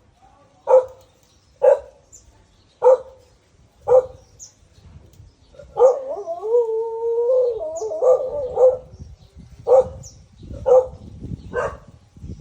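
A dog barking repeatedly, about once a second, with a long wavering cry nearly three seconds long in the middle before the barking resumes.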